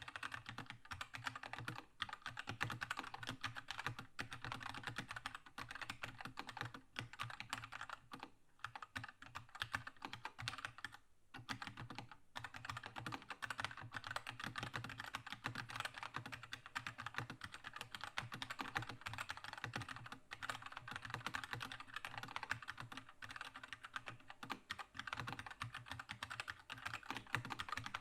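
Keychron K2 mechanical keyboard with red switches being typed on in a fast, continuous stream of key clacks, with two brief pauses about a third of the way in.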